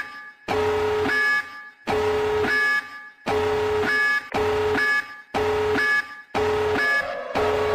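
An electronic alarm-like tone pulsing about once a second, each pulse nearly a second long with a short gap between.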